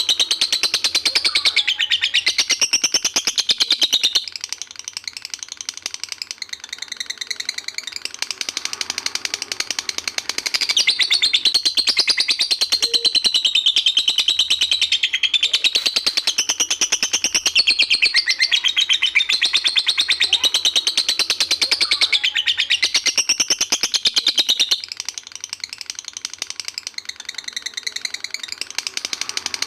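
Lovebird singing a long 'ngekek': a fast, unbroken chattering trill of rapid high notes. It drops softer twice, about four seconds in and again near the end, without stopping.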